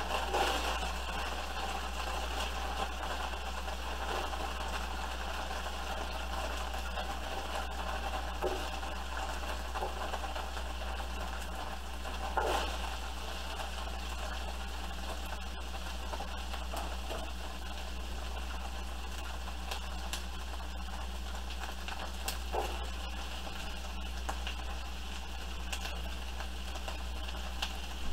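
Chopped onions and green bell peppers sizzling steadily in a hot frying pan, with a few short knocks, the loudest about 12 seconds in, over a constant low hum.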